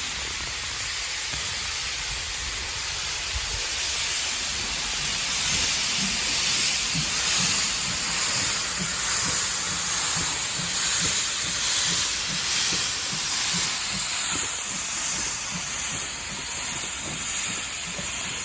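Steam locomotive hissing steam steadily, with a regular low beat of about one to two a second through the middle.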